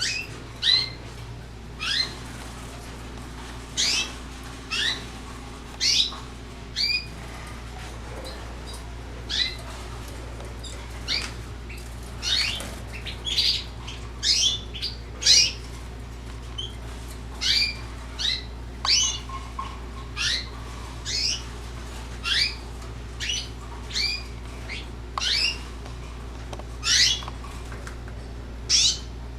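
Canaries giving short, sharp call notes, one about every second at irregular intervals, over a steady low hum.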